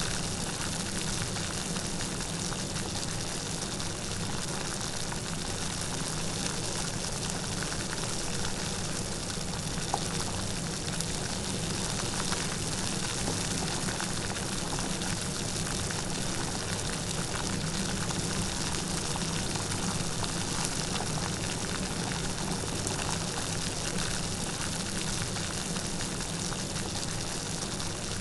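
Light rain falling steadily: an even patter of fine drops.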